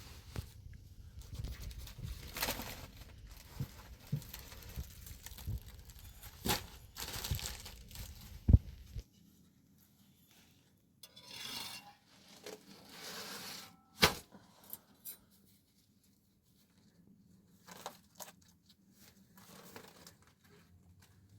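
Rustling and tearing handling noises with scattered sharp knocks, over a low rumble that cuts off abruptly about nine seconds in; later, short rustles and one sharp knock.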